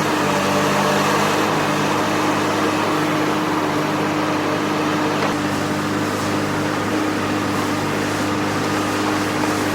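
Komatsu PC350 long-reach excavator's diesel engine running at a steady pitch.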